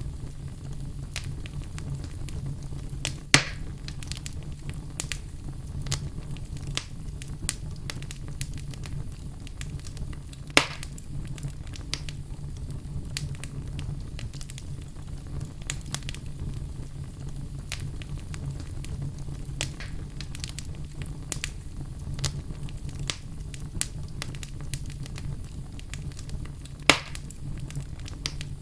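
Wood fire burning in a fireplace: a steady low rumble of the flames with constant small crackles, and three loud sharp pops about 3 s, 10.5 s and 27 s in.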